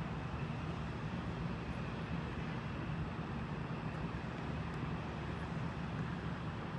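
Steady low rumble of distant engines, even and unchanging, with no rise or fall.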